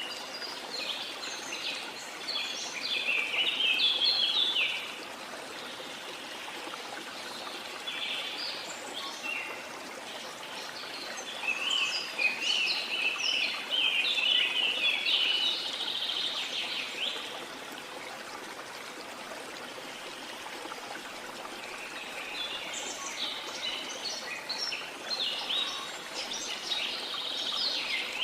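Small songbirds chirping and twittering in three long bouts with short pauses between, over a steady wash of water.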